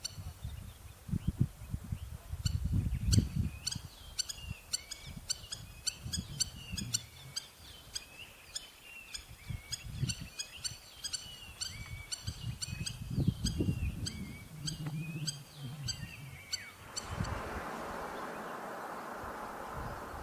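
Bird calling with rapid, repeated short chirping notes over a low, uneven rumble. About seventeen seconds in, the calls stop and a steady hiss takes over.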